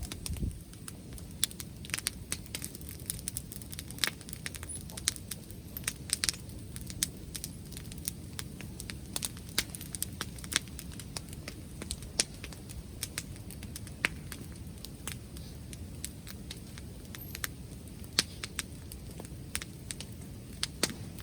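Wood bonfire crackling, with frequent irregular sharp pops over a steady low rumble.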